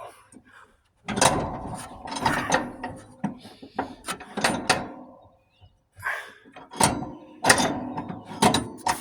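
Metal parts of an old lawnmower's deck clanking and rattling as a stuck part is worked loose by hand, in clusters of sharp knocks with two short lulls.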